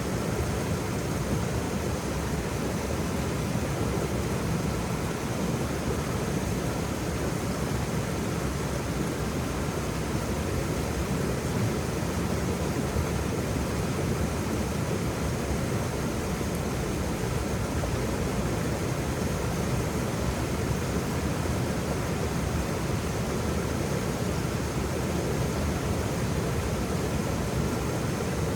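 Waterfall: a steady rush of falling water, deep and unchanging.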